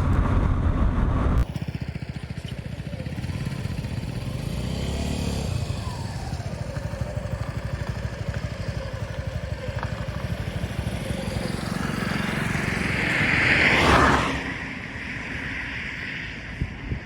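Suzuki V-Strom SX's single-cylinder 250 cc engine running at a steady highway cruise, with wind rushing past. About fourteen seconds in, a louder rushing noise swells and then drops away sharply. Music plays for the first second and a half, then cuts off.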